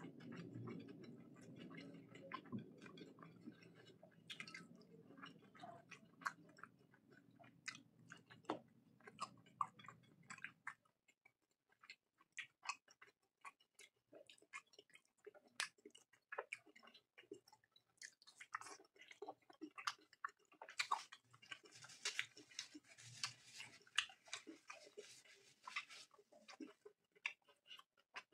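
Close-miked chewing of curry and fried rice: many small, wet, sharp mouth clicks, denser and with a soft hiss behind them in the second half. A low background noise underneath stops abruptly about eleven seconds in.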